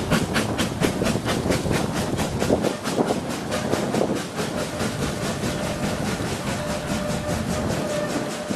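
Corpet-Louvet 0-4-0 tank steam locomotive working a train, its exhaust beating in a quick, even rhythm of about five chuffs a second over the rumble of the rolling wagons. The beats grow fainter from about three seconds in while the rolling noise carries on.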